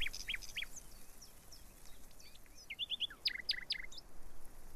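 Small songbirds chirping in short, high, quick calls: a few near the start and a denser run of chirps about three seconds in.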